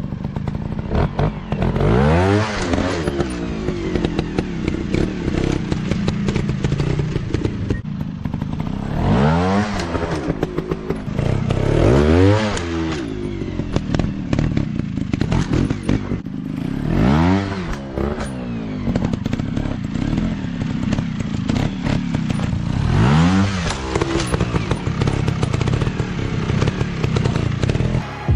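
Dirt bike engine revving up and falling back about five times, with scattered knocks and clatter.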